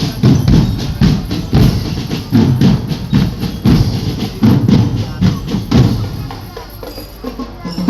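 Marching drum band playing a driving rhythm of drum strokes, heavy in the low drums, easing off shortly before the end.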